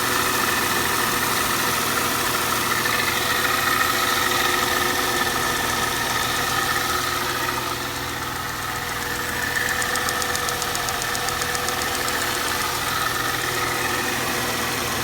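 Mercedes-Benz SLK 320's 3.2-litre V6 idling steadily as it warms up, with a light, fast tick, tick, tick over the idle, plainest about two-thirds of the way through.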